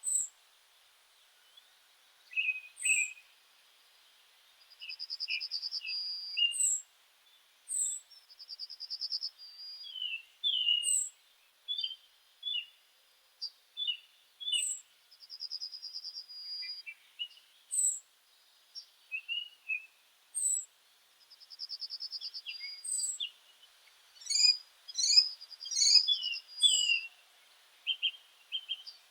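Several meadow birds singing together. One repeats a buzzy trill lasting about a second and a half, roughly every six seconds, over high, thin down-slurred notes and short chirps from others. A flurry of sharp calls comes near the end.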